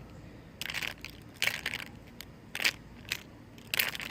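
Several short crunching, rustling noises, about five, each under half a second.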